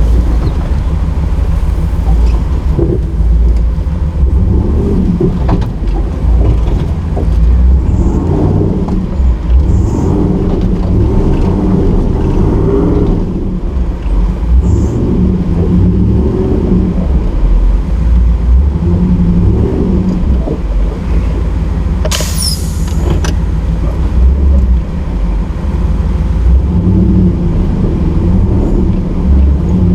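Nissan GQ Patrol's engine running as the truck is driven, its pitch rising and falling with the revs. A brief sharp high-pitched squeal cuts in about two-thirds of the way through.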